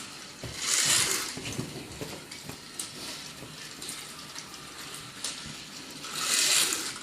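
Battery-powered Trackmaster toy trains running on plastic track, with a steady rattling hum and scattered clicks, and two short hissing bursts about a second in and near the end.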